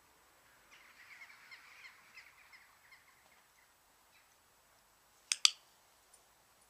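A bird calling: a quick run of short chirps for about three seconds, drifting slightly lower in pitch. About five seconds in come two sharp clicks close together, the loudest sound.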